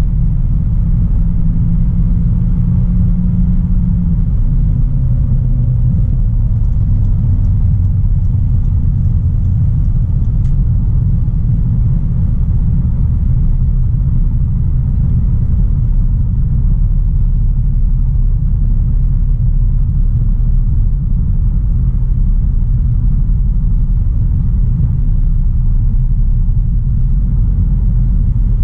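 2016 Audi A3 Sportback 1.4 TFSI's turbocharged four-cylinder petrol engine and tyres giving a steady low rumble while the car is driven. The engine note steps lower a couple of times in the first ten seconds.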